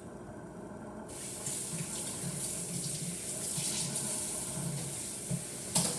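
A steady rushing hiss, like running water or food sizzling in a pan, starts abruptly about a second in and stops near the end with a short click.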